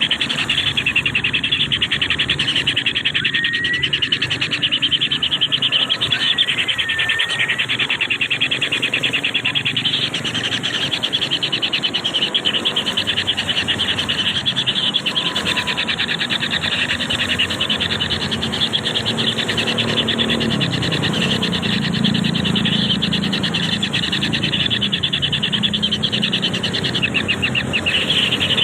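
A continuous chorus of insects trilling, a dense rapid high pulsing that never lets up, with a few short faint whistled bird notes about three to seven seconds in.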